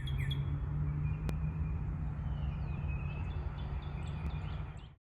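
Wild birds chirping and calling, short high notes with one downward-sliding call about three and a half seconds in, over a steady low rumble. The sound cuts off suddenly near the end.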